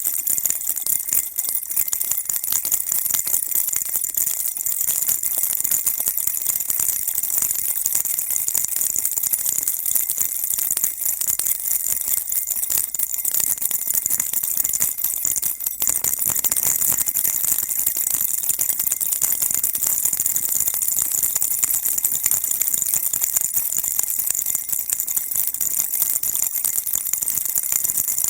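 Baby rattle shaken steadily without a break: a dense, even, high-pitched rattling.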